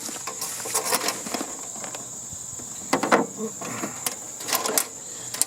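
Scattered clicks and knocks of tools and metal parts being handled while a heating and air-conditioning unit is dismantled for scrap, loudest about three seconds in and again near the end. Behind them is a steady high trill of crickets.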